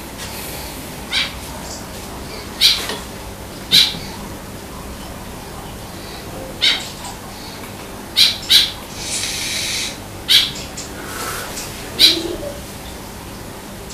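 Short, high bird chirps, about eight of them at uneven intervals, with a brief hiss about nine seconds in.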